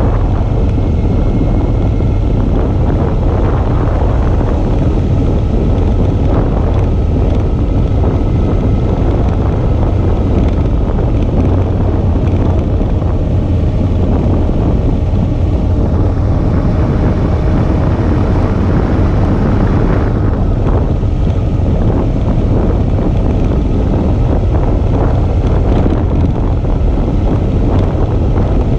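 Suzuki V-Strom 650's 645 cc V-twin engine running steadily under way, heavily mixed with wind rushing over the camera microphone.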